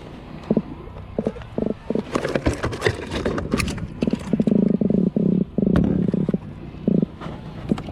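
Spinning fishing reel being cranked in short bursts while a fish is brought in, mixed with clicks and knocks from handling the rod and tackle. The longest spells of cranking come about halfway through.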